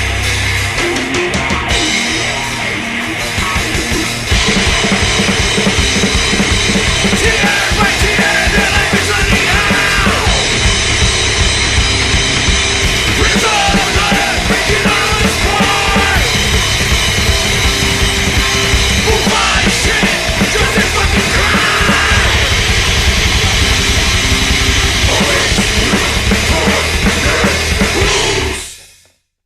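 Heavy rock band playing loud, dense music with a pounding drum kit. It gets louder about four seconds in, and the song stops sharply near the end.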